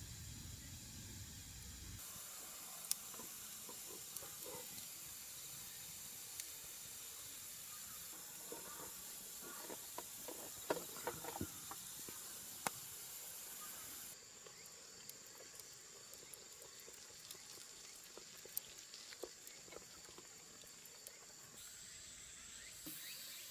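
Faint steady hiss with a thin high tone, scattered sharp clicks, and a few short chirps around the middle.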